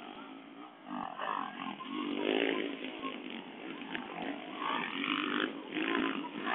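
Dirt bike engine revving hard in several surges, rising and falling in pitch as the bike climbs and jumps the track.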